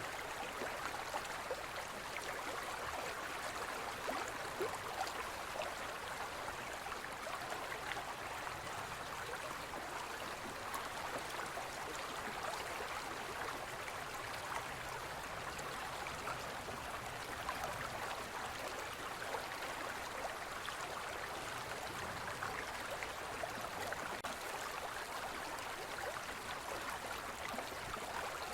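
Shallow forest stream flowing steadily over rocks, an even rush of water with small gurgles and splashes in it.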